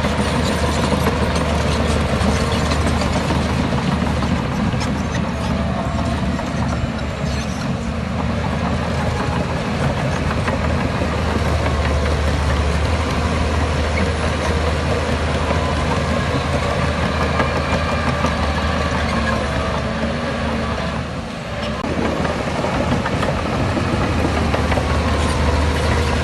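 Heavy diesel earthmoving machinery running steadily under load, with a strong low engine hum. The sound drops briefly about 21 seconds in, then picks up again.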